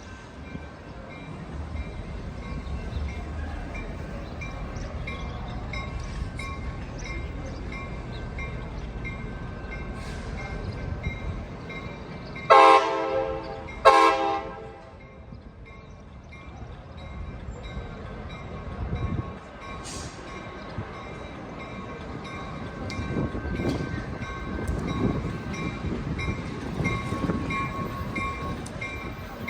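Train horn sounding two short blasts about a second and a half apart, halfway through, over the steady rumble of a passing train. A faint bell-like ding repeats at a steady pace throughout.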